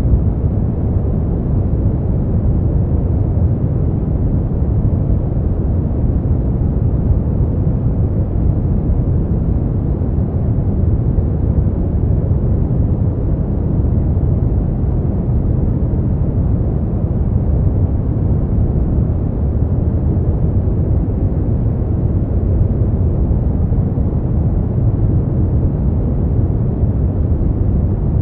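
Steady, unchanging noise for sleep and relaxation, a deep, dull rush heaviest in the bass and thinning out toward the top with no bright hiss, closer to brown noise than to flat white noise.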